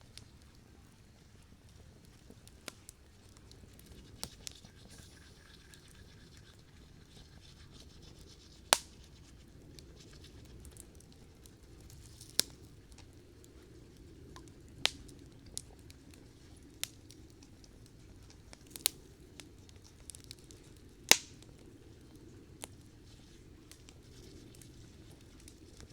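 Campfire crackling, with sharp irregular pops a few seconds apart over a low steady rumble; the loudest pop comes late on.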